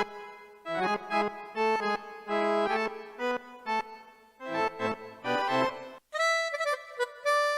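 Yamaha PSR-E373 portable keyboard playing its accordion voice: short melodic phrases of notes and chords with brief pauses between them. About six seconds in, after a short break, a different reed voice with longer held notes begins.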